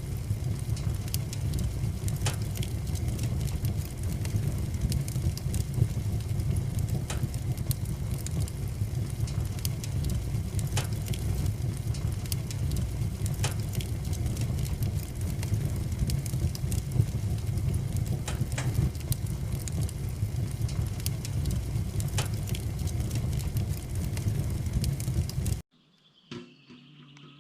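Wood fire burning in a wood stove: a steady low rumble with scattered sharp crackles and pops. About two seconds before the end it cuts off suddenly to a much quieter background with a faint bird chirp.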